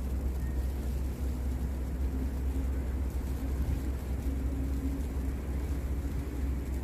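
Steady low rumble of passing road traffic, with a faint engine hum that comes in about a second and a half in and fades near the end.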